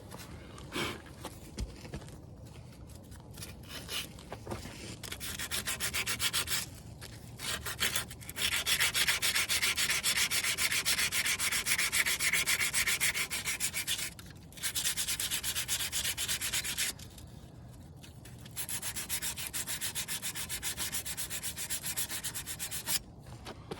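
Sandpaper rubbed by hand in quick, even back-and-forth strokes, in several long bouts with short pauses between, scuffing a brake part clean.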